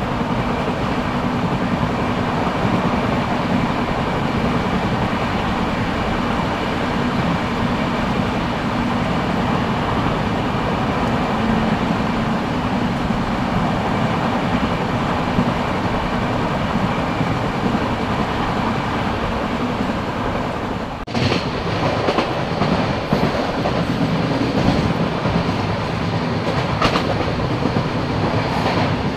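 Express passenger train running at speed, heard from an open coach doorway: a steady rumble and clatter of wheels on rail. About two-thirds of the way through, the sound drops out for a moment and comes back brighter and harsher, with a few sharp clacks after that.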